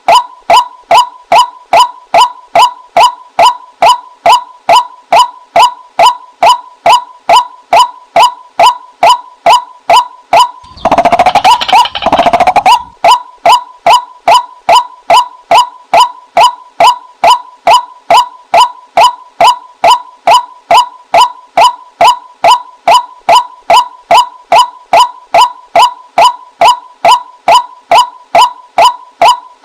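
Female white-breasted waterhen calling: a steady, rapid run of short pitched 'kwak' notes, about two and a half a second, broken around eleven seconds in by a louder, harsher call lasting about two seconds.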